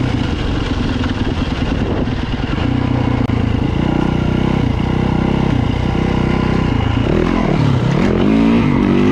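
Dirt bike engine running under way as it is ridden, the revs dropping about seven and a half seconds in and climbing again near the end.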